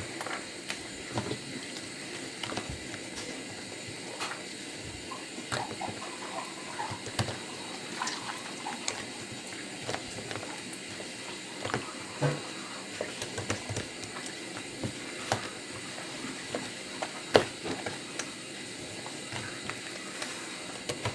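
Slime being squished and worked by hand: irregular wet clicks and pops over a steady hiss, with one louder pop late on.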